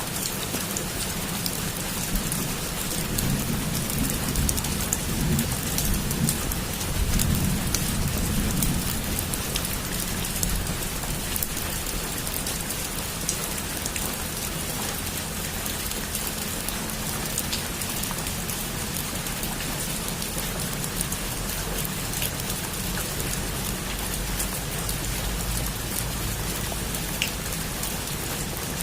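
Heavy rain falling steadily on a rooftop: a dense, even hiss dotted with the ticks of single drops. A low rumble rises and fades from about three to nine seconds in.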